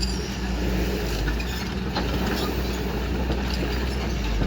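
Excavator's diesel engine running steadily, a low hum with a few faint knocks over it.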